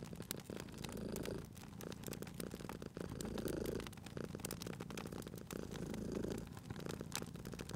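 Domestic cat purring, swelling and easing with each breath about every two and a half seconds, over a crackling wood fire with frequent small pops.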